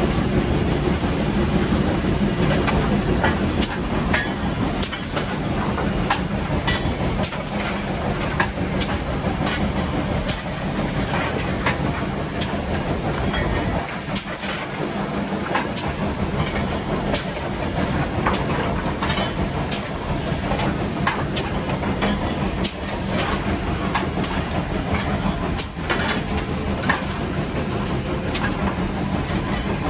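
Nevada Northern No. 81 steam locomotive heard from inside its cab while running: a steady rumble and steam hiss with frequent irregular sharp metallic clanks and clicks.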